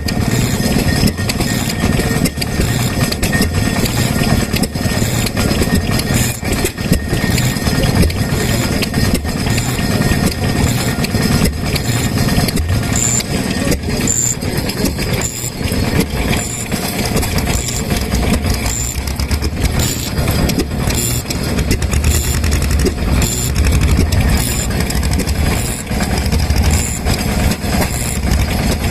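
Several vintage Japanese stationary petroleum engines running together, a dense overlapping chug of firing beats with a strong low thump. A sharp high tick recurs about once a second over the running.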